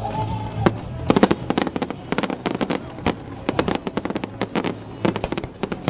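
Fireworks crackling overhead: a dense, rapid run of sharp cracks and pops that starts about a second in and keeps going, with music playing underneath.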